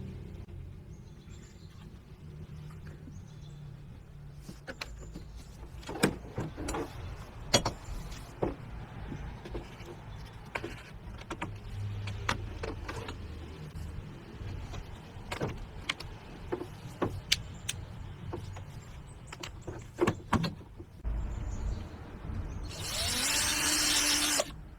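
Parts being handled and fitted together: a string of sharp clicks and knocks over a low rumble, then near the end a small electric motor whirs for about two seconds.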